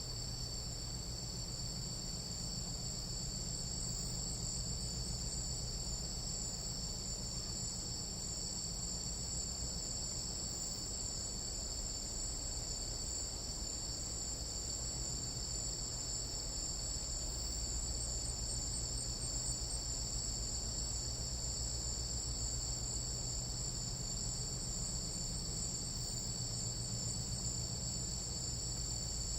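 Chorus of tropical night insects, crickets or katydids, trilling without a break in several high, steady bands, over a low rumble.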